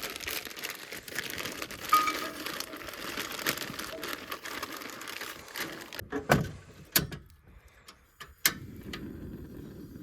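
Crinkling and rustling of paper or plastic being handled for about six seconds, followed by a few sharp knocks.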